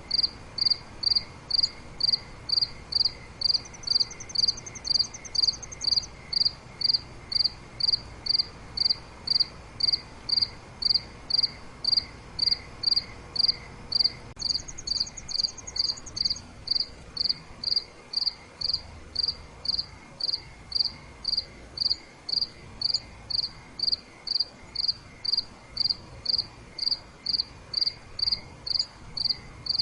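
Crickets chirping at night: one cricket chirps in an even rhythm, about two chirps a second. A second, higher and faster insect trill comes in twice, a few seconds in and about halfway through.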